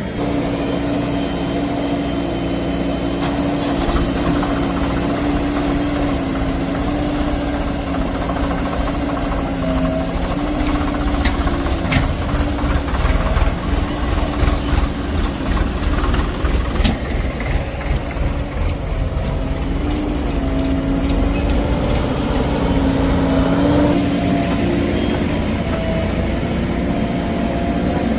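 Heavy diesel machinery engine running, its pitch rising and dipping repeatedly as it works, with a series of sharp knocks and clanks through the middle stretch.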